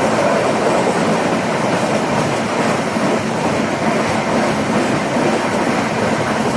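Passenger train running at speed, heard from inside the coach: a steady, loud rush and rumble of wheels on rail.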